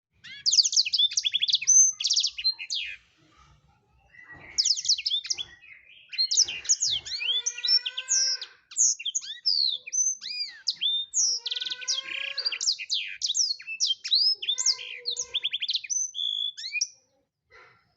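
Black-throated canary (blackthroat) in full song: fast, varied phrases of high trills, chips and sweeping whistled notes. A pause falls about three seconds in, then near-continuous singing resumes about a second later.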